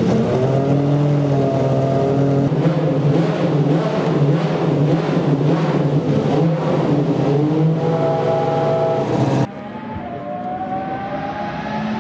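Pagani Zonda R's naturally aspirated 6-litre V12 idling, with throttle revs that swing the pitch up and down. About nine and a half seconds in, the sound cuts to a quieter recording of the car approaching at speed, its pitch slowly rising.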